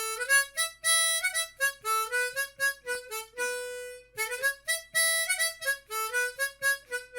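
Harmonica playing a lively tune of short notes, a run of quick reedy phrases with the odd held note.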